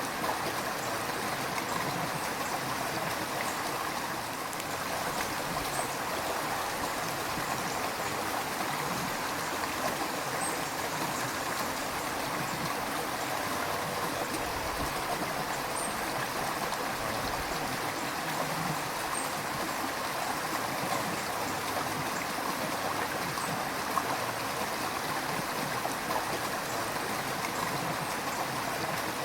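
River water flowing and burbling over stones, a steady, even rush with small splashes and gurgles.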